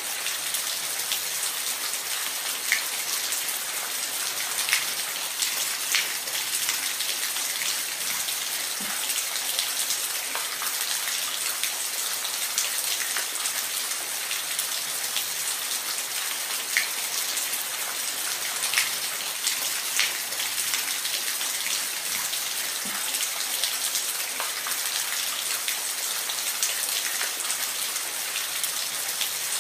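Steady rain falling, a dense hiss with scattered individual drops ticking sharply on a surface now and then.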